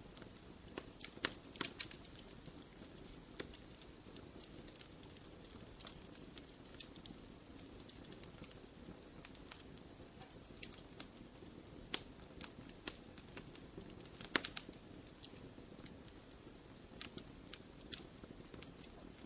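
Wood fire crackling in a fireplace: irregular sharp pops and snaps over a soft, steady rush of burning. A few louder pops come about a second and a half in and again about three quarters of the way through.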